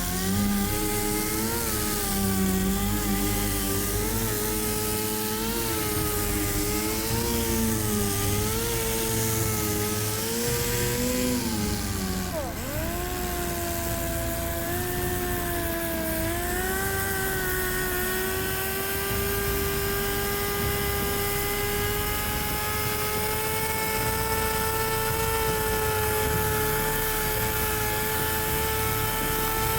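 An electric power tool's motor running, its pitch wavering up and down about once a second. About twelve seconds in the pitch dips sharply, then it climbs and settles into a steady, higher whine.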